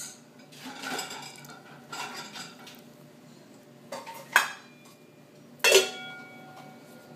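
Metal pots and pans being banged and clanked together in irregular strikes, about half a dozen, with the loudest two near the middle and about two-thirds in, the last of these ringing on briefly.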